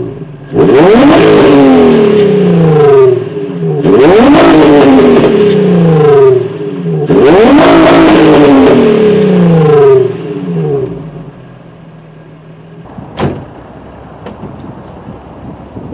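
Infiniti G35's 3.5-litre VQ35DE V6 revved three times while stationary through its exhaust, each blip climbing quickly and then winding back down to idle over a couple of seconds. The engine then settles to a much quieter idle, with a single sharp knock about three seconds later.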